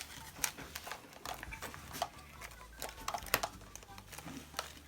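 Scattered light clicks and taps of small plastic glitter containers being picked up and set down on a table.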